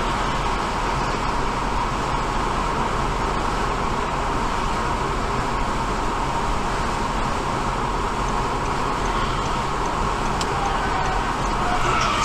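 Steady road noise of a moving vehicle, an even rushing hum that holds level throughout, growing slightly louder near the end.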